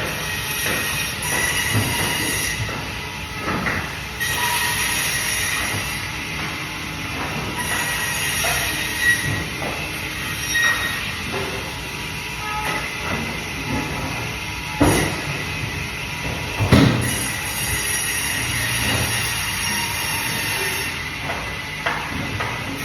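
Bandsaw running and cutting through fish, the blade giving a steady high squeal whose pitch and brightness shift as each cut starts and stops. Two sharp knocks about two-thirds of the way through.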